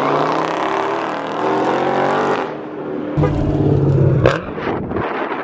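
Dodge V8 muscle-car engines running and revving as the cars drive off, their pitch gliding up and down. About three seconds in, a deeper engine note holds for about a second and ends in a sharp crack.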